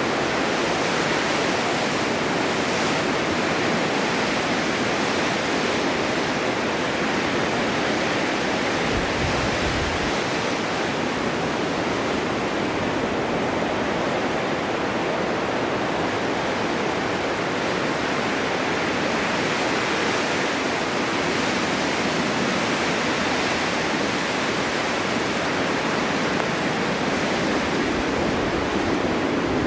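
Snowstorm wind blowing steadily, an even rushing noise that swells and eases a little, with a brief low rumble about nine seconds in.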